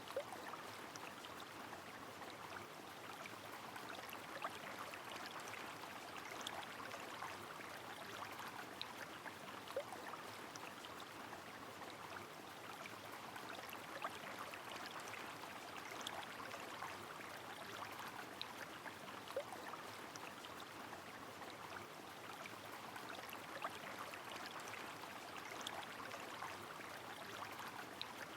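Steady rush of flowing river water in the rain, with scattered sharp drips and small watery plinks throughout.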